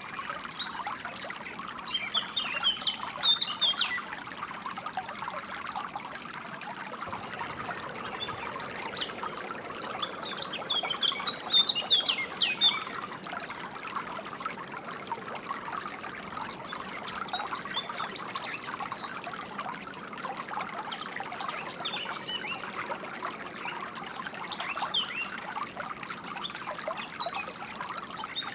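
Flowing water trickling and splashing steadily, with small birds chirping over it in scattered bursts, busiest a few seconds in and again about ten seconds in.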